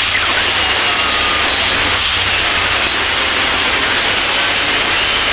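Electric power tool running steadily as it cuts through a wooden sub box panel, a continuous loud noise with no pauses.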